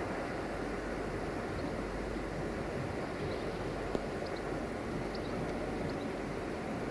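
Steady rolling noise of a freight train's wagons running on the track, with one sharp click about four seconds in.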